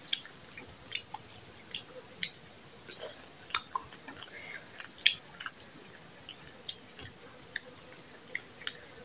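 Close-up chewing and mouth clicks of two people eating rice and chicken with their hands, in irregular short snaps, the loudest about five seconds in.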